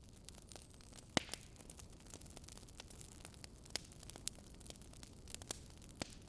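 Faint crackling wood fire, campfire-ASMR style: scattered sharp pops and snaps over a low steady hiss and hum, with the loudest pop about a second in.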